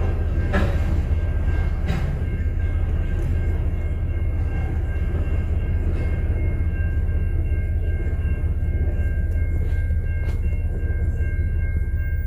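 Freight train rolling past, a steady heavy rumble of railcars over the rails with a thin steady squeal on top and a couple of knocks in the first two seconds.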